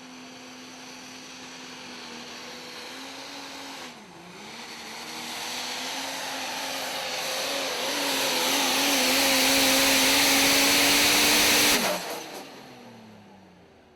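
Super stock diesel pulling truck at full power on a pull: a steady engine note that sags briefly about four seconds in, then grows steadily louder with a rising hiss, and cuts off abruptly near the end before fading away.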